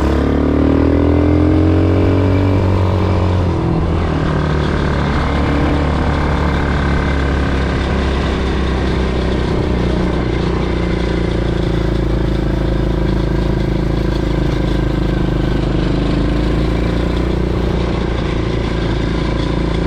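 Quad bike engine running while being ridden, its pitch rising and falling over the first few seconds, then holding a steady drone.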